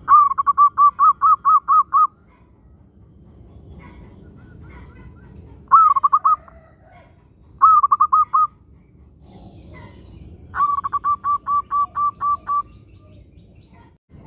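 Zebra dove (perkutut) singing: a rapid run of about ten coos at the start, two short cooing phrases in the middle, and another run of about ten coos near the end.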